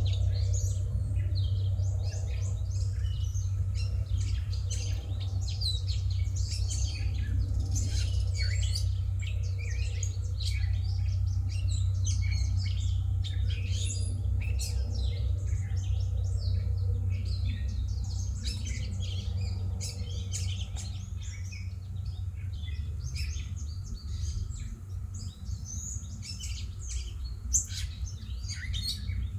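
Several birds chirping and calling in quick, overlapping notes over a steady low rumble.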